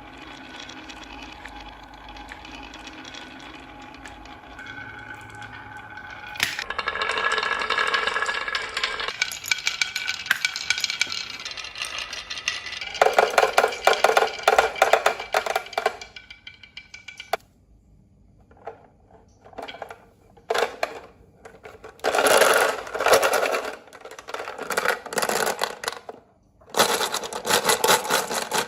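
A small motor whirring steadily, louder from about a third of the way in, then a run of rapid clicking and rattling bursts with short pauses between them.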